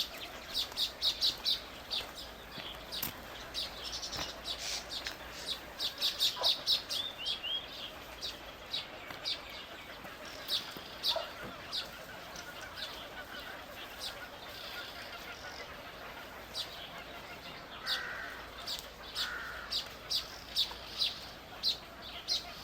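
Small birds chirping: short, high chirps in quick runs of several a second, with pauses between the runs.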